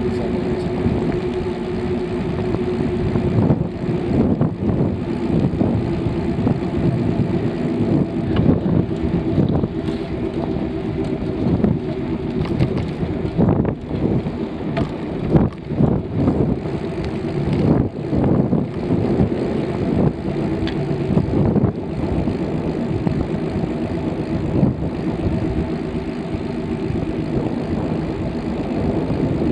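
A bicycle being ridden: a steady hum with frequent short knocks and rattles.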